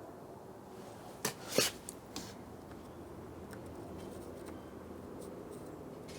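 A few short clicks and knocks of small hardware being handled, two close together about a second and a half in, over quiet room noise.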